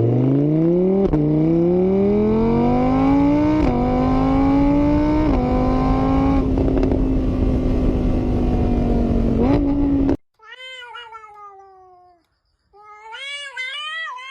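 A car engine accelerating hard through the gears, its pitch rising and stepping down briefly at each shift, cut off suddenly about ten seconds in. A cat then meows twice.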